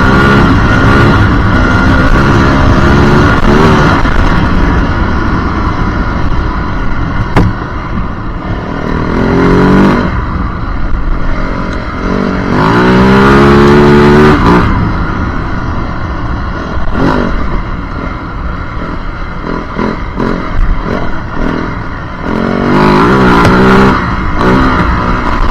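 Yamaha WR450F dirt bike's single-cylinder four-stroke engine being ridden, revving up hard and easing off several times. Between the surges are stretches of lower, uneven running with some clatter.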